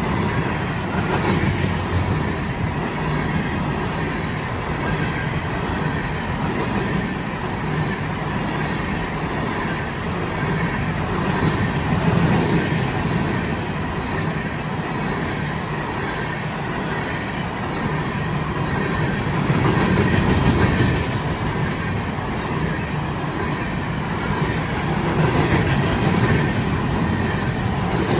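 Freight train cars passing at speed: a steady rumble and clatter of steel wheels on the rails, with repeated clicks and a few louder swells.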